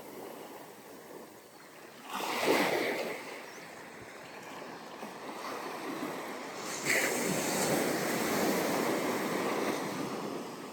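Ocean waves breaking and washing up a sandy beach, with a short surge about two seconds in and a longer one from about seven seconds that runs on for a few seconds before easing.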